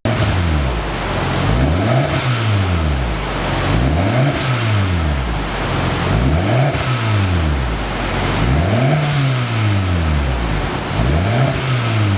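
Kia Forte Koup 1.6's four-cylinder engine heard through a single variable-valve aftermarket exhaust, revved up and let fall back about five times, roughly every two seconds, its pitch rising and dropping with each rev.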